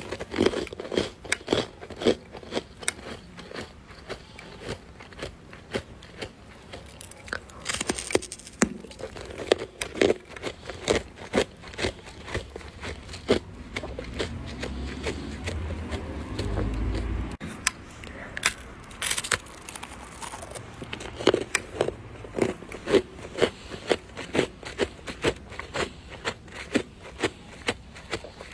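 Freezer frost being crunched and scraped, a run of irregular squeaky crunches and crackles, with a low rumble for a few seconds past the middle.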